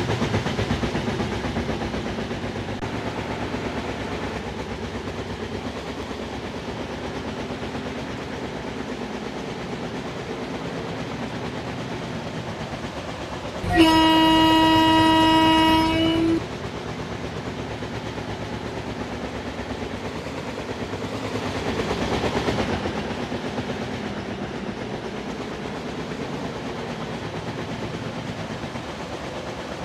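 Train rolling with a steady running rumble and wheel clatter. About fourteen seconds in, a locomotive horn sounds one long steady blast of about two and a half seconds.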